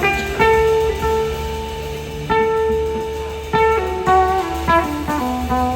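Electric slide guitar playing a lead solo: two long held notes, then a falling run of shorter notes near the end, over a steady bass line from the band.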